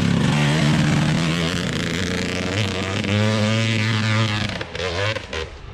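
Off-road vehicle engine running and revving up, rising in pitch a few seconds in, then dropping away near the end with a few knocks.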